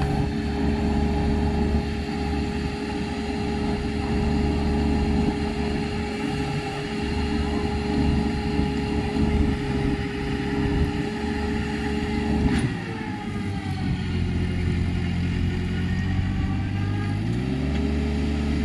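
Mini Sonalika tractor's diesel engine running steadily under load while hauling a straw load up an incline that it cannot climb. About twelve seconds in there is a sharp click, the engine speed drops and stays low for several seconds, then rises back up near the end.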